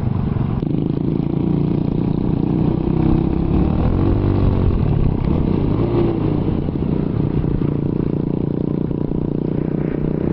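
Honda Wave 110i's single-cylinder four-stroke engine running through an aftermarket CB exhaust while riding, its note dipping and rising briefly around the middle.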